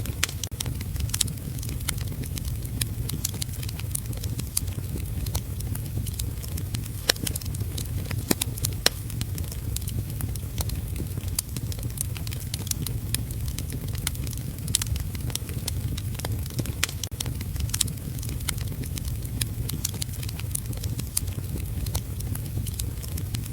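Wood fire crackling in a fireplace, with sharp pops scattered irregularly throughout, over a steady low rumble and hiss of heavy rain.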